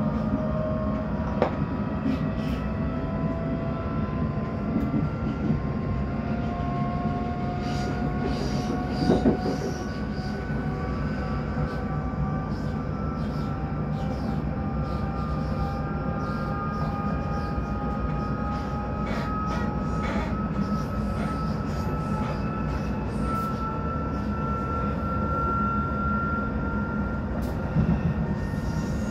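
Class 458/5 electric multiple unit under way, heard from inside the carriage: its traction motors whine with several tones rising slowly in pitch as the train gathers speed, over steady running noise, with scattered clicks and knocks from the wheels over rail joints and points.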